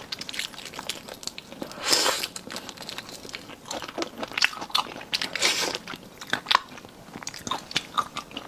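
Close-miked eating of marinated seafood: chewing with many short crisp crunches, and two longer hissing sounds about two seconds in and again near the middle.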